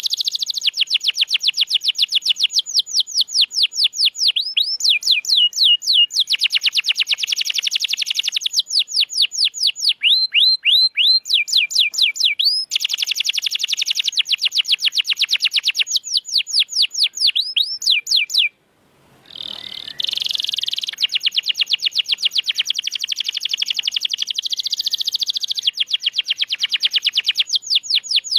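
Domestic canary singing long, rapid trills of repeated high notes, about ten a second, changing from one roll to the next every few seconds. A brief break comes about two-thirds of the way through.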